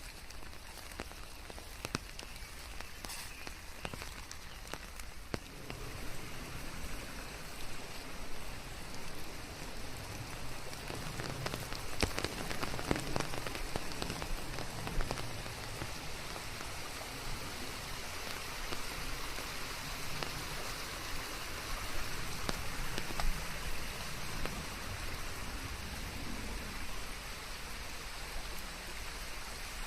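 Steady rain falling and pattering on surfaces, with many small drop ticks over a constant hiss. It picks up a little about six seconds in.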